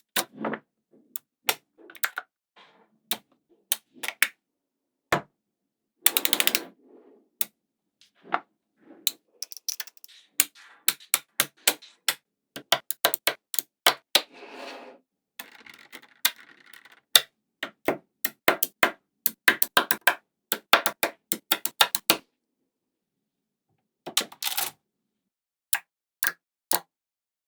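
Small magnetic balls clicking sharply as they snap onto one another, one at a time at an uneven pace. Now and then a short clatter of several balls rattling together.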